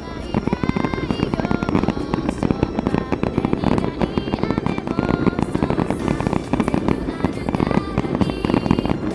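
Fireworks bursting and crackling in a dense, continuous stream of sharp pops, with an upbeat music track playing alongside.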